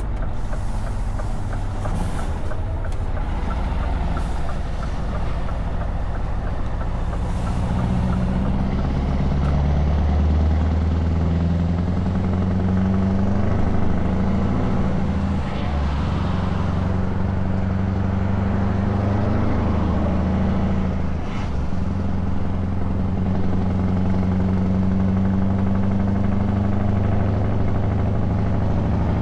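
Scania S truck engine running loud through open exhaust pipes, a steady drone while cruising. A few short hissing clicks come in the first seconds, and the engine note breaks briefly twice in the second half.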